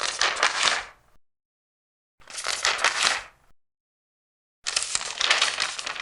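Large paper pages being turned one after another. There are three crisp rustling turns, each lasting about a second and spaced about two and a half seconds apart, with silence between them.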